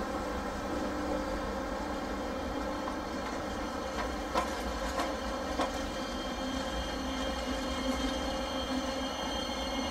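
PKP Intercity passenger coaches of a departing EuroCity train rolling past on the station track with a steady rumble. Their wheels click sharply over rail joints three times about halfway through, and a faint high wheel squeal grows toward the end.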